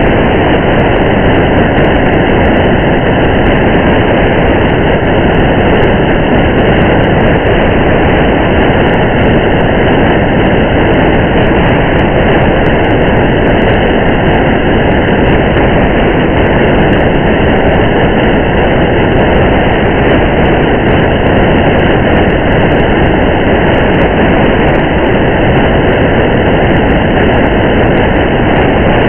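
Steady rain mixed with the road noise of a car driving on a highway: an even, unbroken hiss and rumble, with faint scattered ticks of raindrops.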